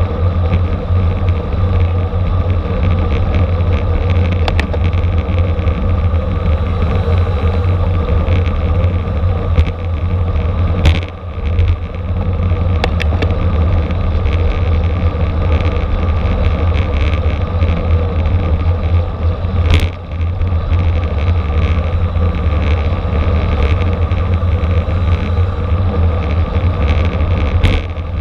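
Wind rushing over the microphone, heard as a steady heavy rumble, together with road noise from a racing bicycle moving at speed. A few brief clicks and knocks break through, with short dips about eleven and twenty seconds in.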